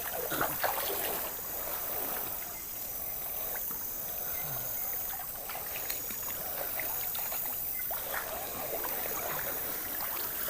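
River water flowing steadily, with scattered light splashes and knocks throughout.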